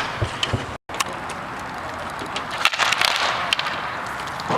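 Hockey game on a rink: a steady hiss of skating with scattered sharp clacks of sticks and puck. The sound cuts out completely for a moment a little under a second in.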